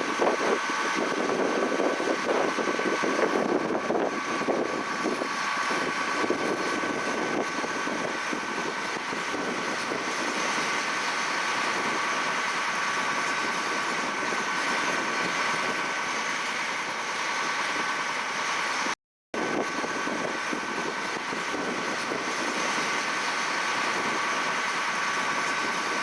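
Carrot-harvesting machinery running steadily, with engine noise and two steady high-pitched whines over it. The sound cuts out completely for a moment about 19 seconds in.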